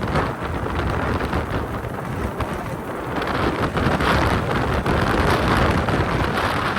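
Loud wind buffeting the microphone on a moving motorbike: a dense, steady rush of noise with no clear engine note.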